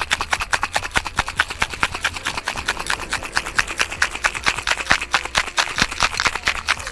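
Ice cubes rattling in a cocktail shaker shaken hard by hand, a rapid even rattle of about six or seven strikes a second that stops suddenly near the end.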